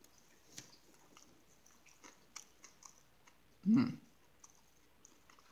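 A man chewing a bite of tuna salad sandwich with soft, scattered wet mouth clicks. A short low vocal sound from the throat comes just under four seconds in and is the loudest thing.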